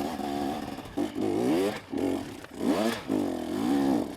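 Two-stroke dirt bike engine (KTM 250SX) revving in repeated bursts, its pitch rising and falling about four times, as the bike labours up a steep hill climb. Light scraping and clattering under it.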